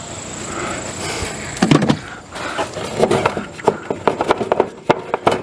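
Hands working on an RV furnace's parts and wiring: rustling and scraping, then from near the middle a rapid run of sharp clicks, taps and knocks of plastic and metal parts being handled, under a faint steady high whine.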